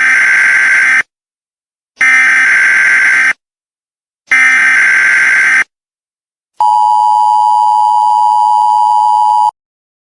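Emergency Alert System tones: three one-second screeching data bursts of the digital SAME header, then a steady two-tone attention signal held for about three seconds. Together they announce a National Weather Service severe thunderstorm watch.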